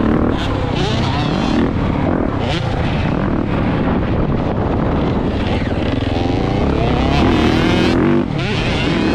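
Mini dirt bike engine revving up and down as it is ridden, its pitch rising and falling with the throttle. The engine drops off sharply a little past eight seconds, then picks up again.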